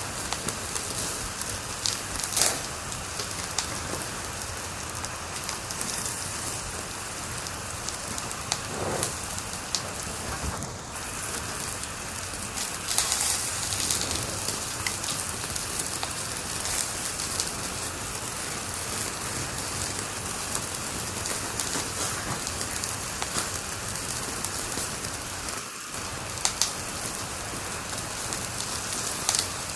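Wood fire crackling in a fireplace: a steady dense hiss of small crackles, with louder pops now and then.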